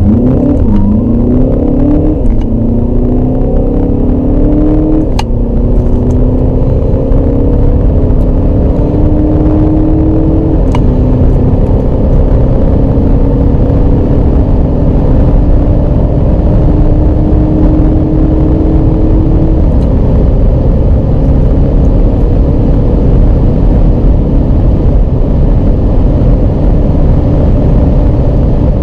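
Volkswagen Passat BiTDI's 2.0-litre four-cylinder biturbo diesel at full-throttle acceleration, heard inside the cabin. The engine note climbs in each gear and drops quickly at each upshift of the seven-speed dual-clutch gearbox: several shifts, each gear held longer than the last. A heavy road and wind rumble runs underneath.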